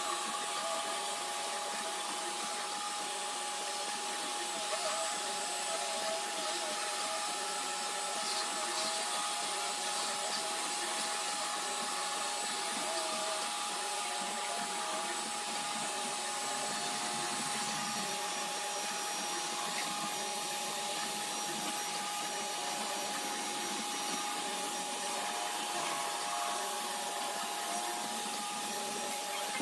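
iRobot Roomba robot vacuum running steadily: an even hiss with a constant high whine and a wavering hum beneath it.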